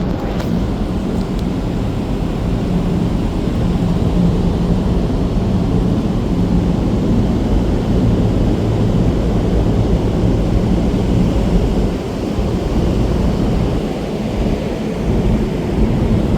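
Steady low rumble of a car ferry under way: the ship's engines humming beneath a rough, rumbling noise, with a slight dip about twelve seconds in.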